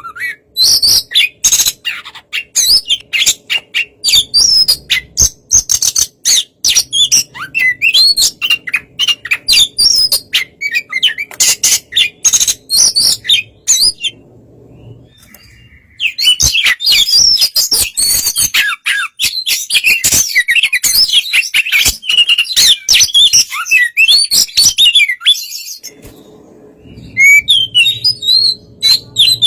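Oriental magpie-robin (kacer) singing a fast, varied song of rapid chirps and whistled phrases, pausing for about two seconds midway before starting again. It is the kind of song used to provoke other magpie-robins into answering.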